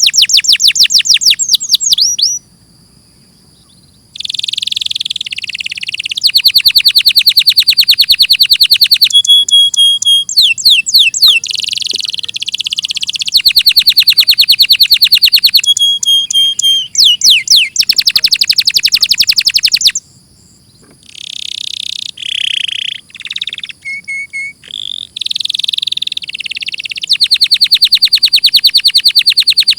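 Domestic canary singing a long song of very fast trills and rolling repeated notes. It breaks off briefly about two and a half seconds in and again about twenty seconds in.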